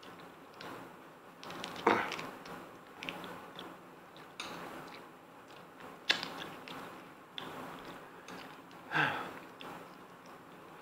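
Close-up eating sounds from two people: chewing and biting lobster and garlic noodles, with a few short sharp clicks, the loudest about two, six and nine seconds in.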